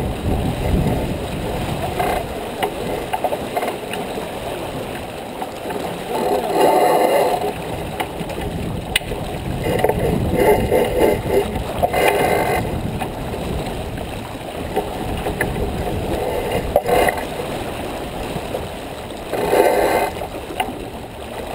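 Wind and water noise aboard a J24 sailboat under way: a steady rushing with several louder surges.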